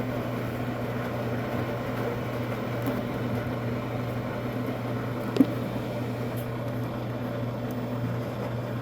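Washing machine running steadily in mid-cycle, a constant low hum, with one short click about five and a half seconds in.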